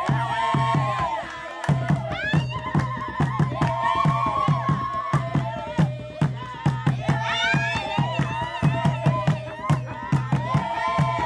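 Voices singing a melody over a steady, regular drum beat.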